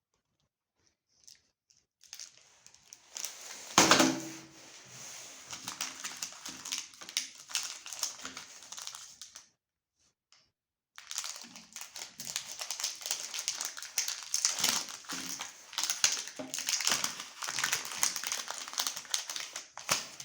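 Chocolate bar wrappers crinkling as they are handled and unwrapped, in two long stretches with a short pause between them.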